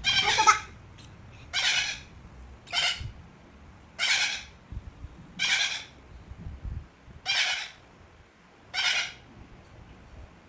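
Cockatiel squawking: seven short, harsh calls, about one every one and a half seconds.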